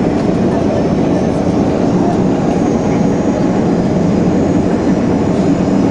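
Steady cabin noise inside an Airbus A330 airliner during landing: engine and airflow noise with a deep, even rumble and no sudden changes.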